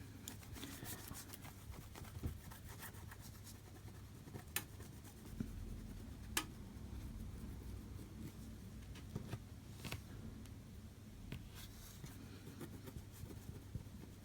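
Faint rubbing and scratching as stubborn glue residue is worked off the surface of an iPhone 5C's LCD, with a few small clicks.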